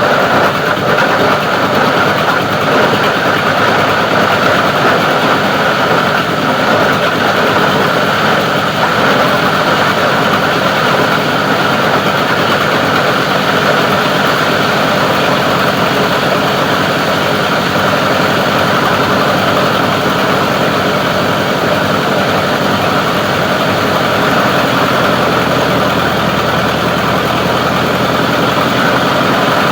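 Plastic recycling grinder machine running with a steady, loud mechanical drone.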